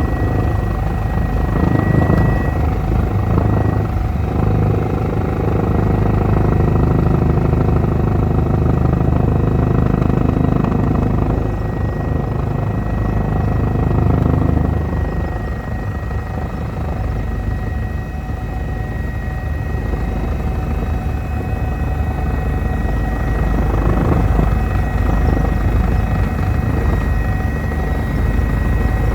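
Eurocopter EC145 helicopter in flight: steady rotor and turbine noise with a thin, steady high whine over it.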